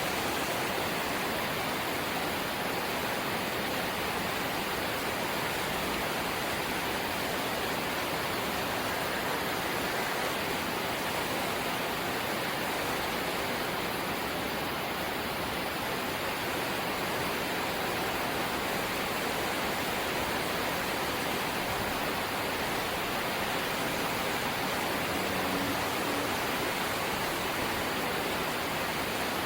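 Rain falling on a corrugated zinc roof: a steady, dense hiss with no single drops standing out.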